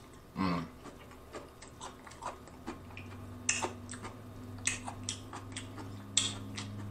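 Close-miked chewing of a bite of raw green chili pepper: scattered wet crunches and mouth clicks, with a brief hum about half a second in. A low steady hum comes in about three seconds in.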